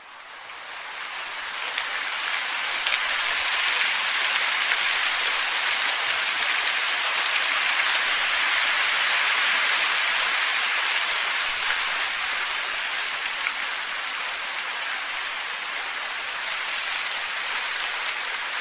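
Steady wind ambience: an even, soft hiss with no distinct events, fading in over the first couple of seconds.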